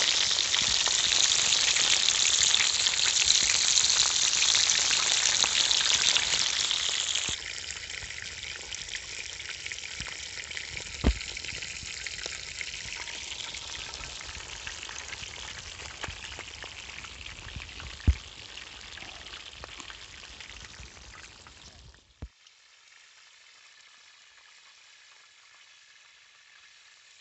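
Chicken and potatoes sizzling as they fry in a disc pan over a campfire: a loud sizzle that drops abruptly to a quieter one about seven seconds in, with two sharp pops along the way. Near the end it cuts to a faint hiss.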